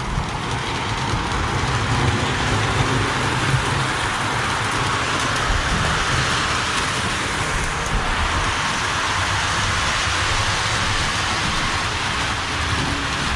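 Model steam locomotive running on the layout: a steady hiss with a low rumble underneath.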